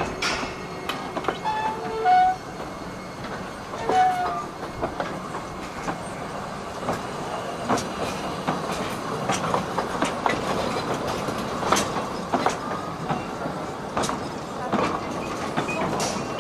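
Narrow gauge passenger coaches behind a battery-electric locomotive rolling slowly past, the wheels clicking irregularly over rail joints. A few short squeals from the wheels come about two and four seconds in.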